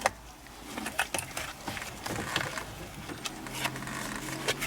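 Scattered light clicks and rattles of plastic steering-column parts and wiring connectors being handled and unclipped by hand.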